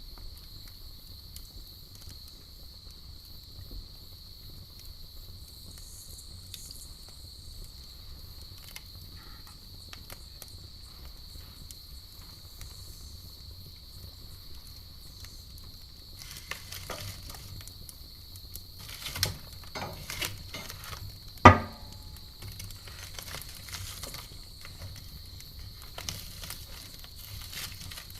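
Campfire crackling with scattered pops that grow busier in the second half, one sharp loud pop about two-thirds of the way through, over a steady high chirring of crickets.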